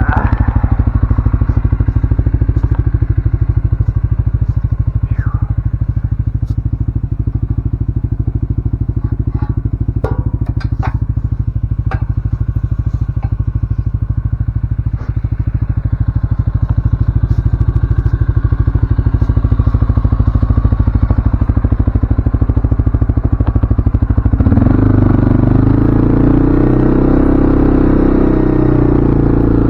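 CFMoto ATV engine running steadily under way, with scattered clatter and knocks from the ride. About twenty-five seconds in, it revs higher for a few seconds, then eases off.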